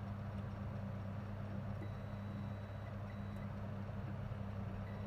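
Steady low electrical hum, with a thin high-pitched whine that comes in about two seconds in, breaks off briefly, and returns near the end.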